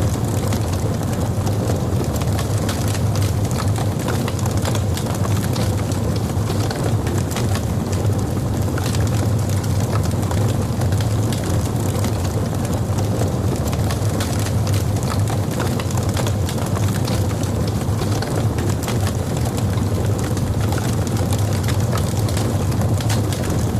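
Log fire burning in a fireplace: a steady low rumble of flames with many small, sharp crackles and pops from the burning wood.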